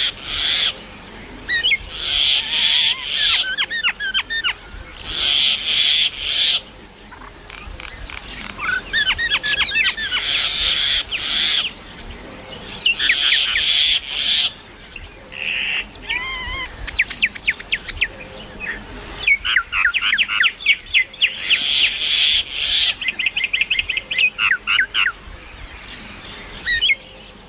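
Mynas calling: repeated bursts of scratchy chatter mixed with quick rising and falling whistles and fast rattling runs of notes.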